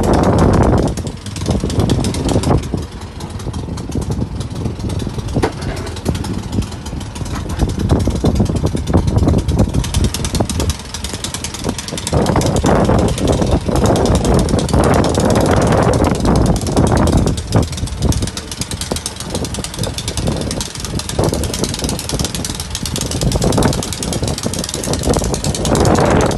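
Snow blower engine running, its loudness rising and falling.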